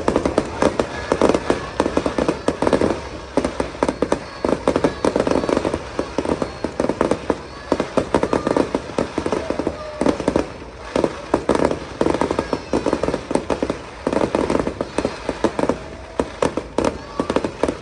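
Fireworks going off: a dense, rapid run of bangs and crackling that comes in clusters with short lulls between them.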